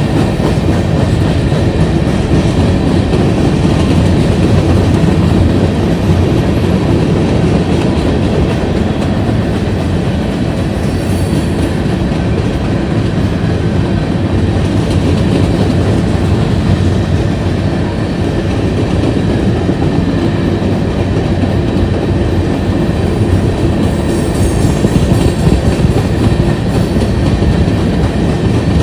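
Railroad cars rolling past at speed: a steady, loud rumble with the clickety-clack of wheels over the rail joints.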